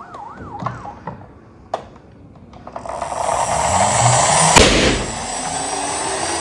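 A toy emergency-vehicle siren wails briefly. A hissing noise then swells, and about four and a half seconds in there is a loud pop, with noise running on after it.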